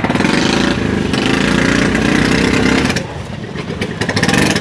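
A motor vehicle engine running close by, loud for about three seconds and then dropping off, with a few sharp clicks near the end.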